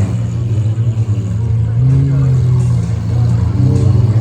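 A car engine running, its pitch swelling and easing a few times as it is revved lightly.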